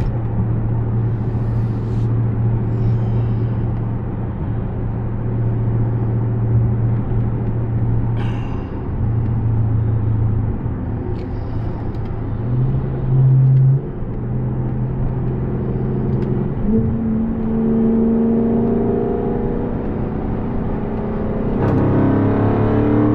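Dodge Charger Scat Pack's 6.4-litre 392 HEMI V8 cruising with a steady low drone, its note briefly stepping up about halfway through. Over the last several seconds the engine pulls harder and its pitch climbs as the car accelerates.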